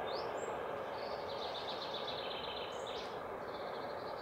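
A small bird chirping over steady background noise: a couple of quick rising chirps near the start, a fast trill through the middle, and another chirp near the end.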